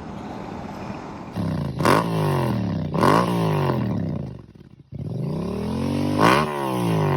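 Honda Transalp XL750's parallel-twin engine pulling hard through the gears. Its pitch climbs and drops sharply at each upshift, twice in quick succession. It then eases off briefly before climbing again into a third shift near the end.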